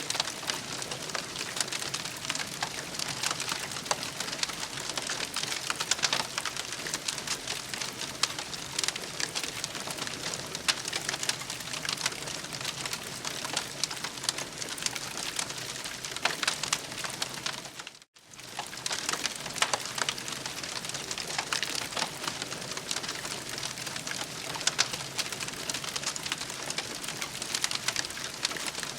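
Campfire burning, a steady hiss with dense crackling and popping; it cuts out briefly about eighteen seconds in, then resumes.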